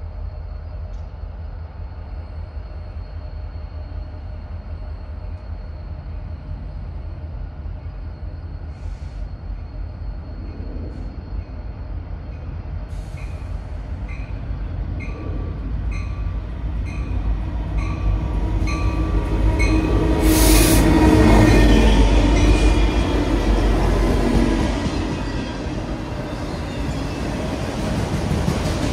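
CN freight train approaching and passing, its rumble building to a peak about two-thirds of the way in, with squealing wheel tones, over the steady low drone of a stopped train's idling diesel locomotives. A regular high ding, about one and a half a second, sounds in the middle of the build-up.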